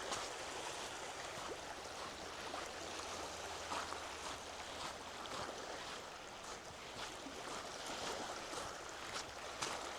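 Lake Michigan water washing steadily on the shore.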